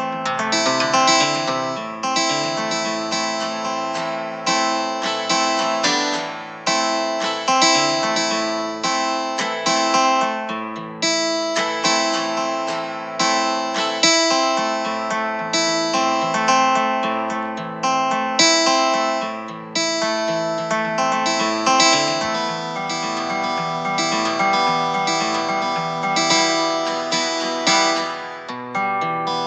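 Background music of plucked acoustic guitar, notes picked in quick succession.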